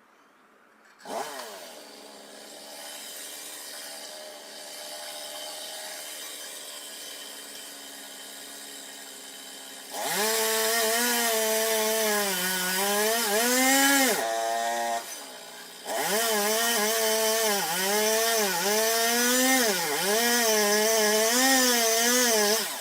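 A gasoline chainsaw starts up about a second in and runs lightly. From about ten seconds in it runs at full throttle, its pitch repeatedly dipping and recovering as it cuts into wood, with a brief let-off around fourteen seconds.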